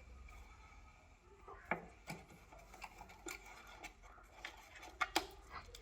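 Scattered light clicks and taps, about six over a few seconds, from the large removed bolts and tools being handled during disassembly.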